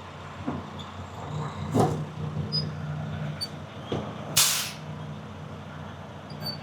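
Semi-truck idling with a few metallic clanks from the trailer's air-line couplings, and one short, sharp burst of compressed air hissing about four and a half seconds in. The hiss comes from the blue service-line gladhand, which the driver suspects is not sealing right.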